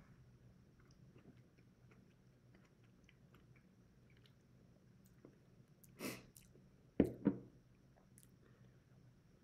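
Quiet chewing with small mouth clicks, then about six seconds in a brief rustle, followed a second later by two sharp knocks about a third of a second apart as a glass hot sauce bottle is set down on a wooden table.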